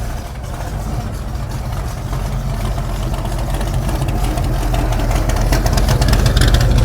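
Classic car engine running at low speed as the car rolls in, with a low rumble that grows louder as it comes closer.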